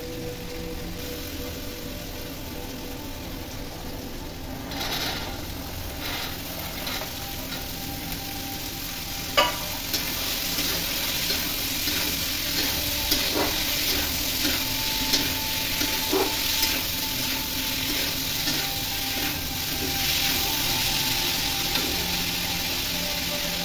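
Onions, tomatoes and boiled chickpeas sizzling in hot oil in a kadai while a flat steel spatula stirs and scrapes them, with scattered clicks and knocks of the spatula on the pan. A sharp knock comes about nine seconds in, and the sizzle is louder from about ten seconds in.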